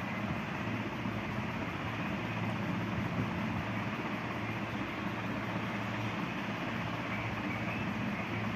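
Steady low background rumble with a constant hum, unchanging throughout.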